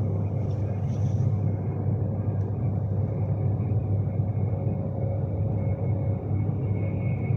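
Steady low rumble of a Class 390 Pendolino electric train running along the line, heard inside the carriage, with a faint steady high tone above it.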